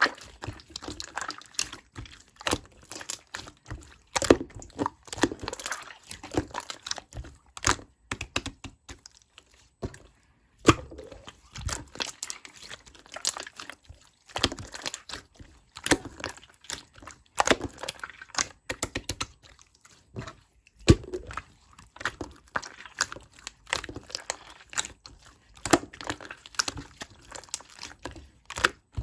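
Sky-blue slime being squished, pressed and stretched by hand, giving rapid runs of wet clicks and small pops with brief pauses between them.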